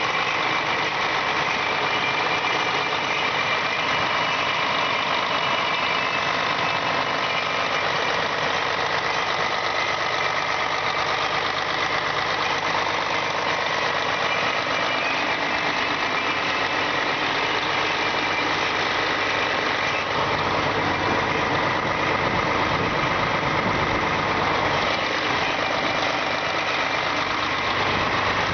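Diesel engine from a Claas 870 forage harvester running steadily out of the machine.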